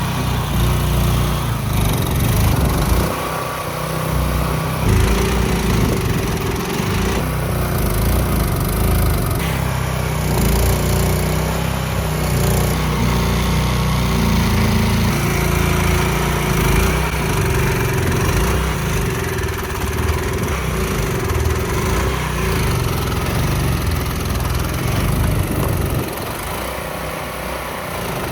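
Mud boat's motor running steadily under load as it pushes through thick mud. It eases off about two seconds before the end.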